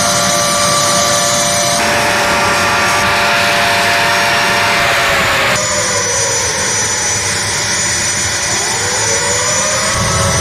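Jet aircraft engines running loud and steady with a high whine; the whine dips in pitch about halfway through and climbs again near the end, and the sound changes abruptly twice.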